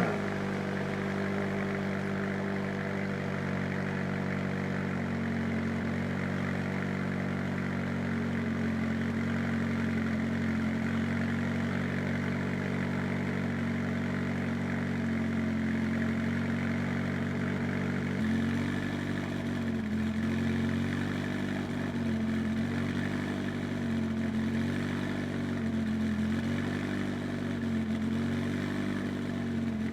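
McLaren 570S twin-turbo V8 with the factory sport exhaust idling just after a cold start. The idle holds steady, shifts slightly about five seconds in, and from about eighteen seconds in its pitch rises and falls evenly, about once every second and a half.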